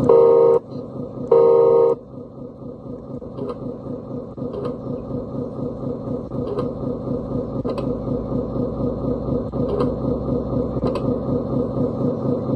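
Sound module of a 1/14-scale RC Scania truck: two short horn blasts, then a simulated diesel engine idling with an even pulsing beat.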